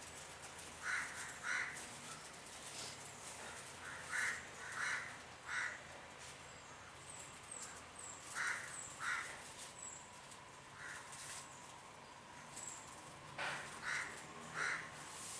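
A bird calling repeatedly, short harsh calls in groups of two or three, with faint high chirps from another small bird in the middle.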